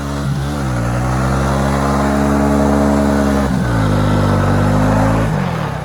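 Vehicle engine pulling hard at high revs, rising slightly and holding, then dropping in pitch about three and a half seconds in and falling back near the end. The driver hears a little pre-detonation at this point and thinks the engine is getting hot.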